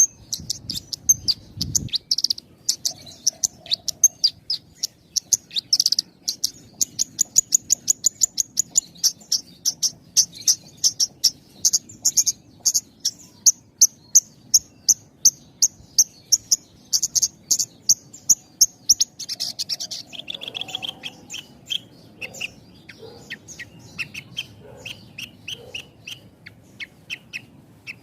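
Javan bush lark (branjangan) singing with tight pauses: a long, fast string of high, sharp chirps, changing a little before two-thirds of the way through to a slower series of lower notes.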